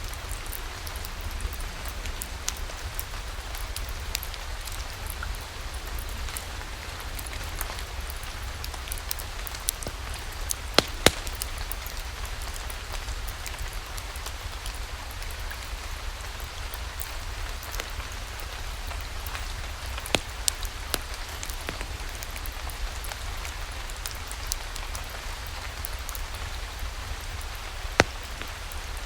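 Steady rainfall mixed with a few sharp crackles, the loudest pair about eleven seconds in and others near twenty and near the end.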